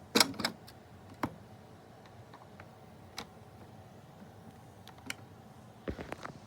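A few sharp clicks and knocks: a loud double click about a quarter second in, single clicks every couple of seconds, and a short cluster of them near the end.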